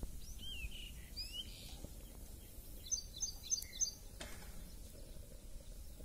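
Faint outdoor ambience of small birds calling. Gliding chirps come in the first second and a half, and a quick run of repeated chirps about three seconds in, over a low steady rumble.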